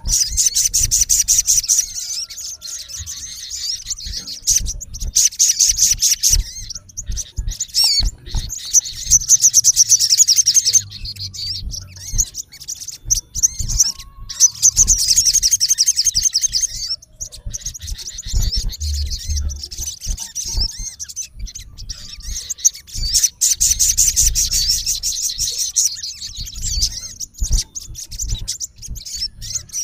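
Male olive-backed sunbird's territorial calling at a rival: about five bursts of fast, high, repeated notes, each lasting roughly two seconds, with short gaps between.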